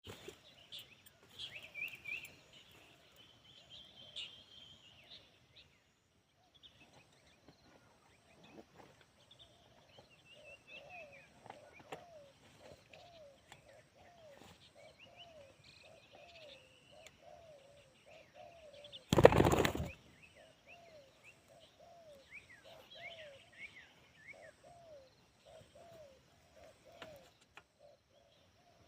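Spotted dove (tekukur) cooing, a long run of low repeated curved notes, with small birds chirping higher up. About two-thirds through comes a single loud, brief burst of noise.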